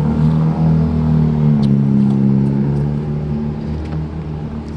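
Car engine running, a steady low hum whose pitch shifts slightly as it goes.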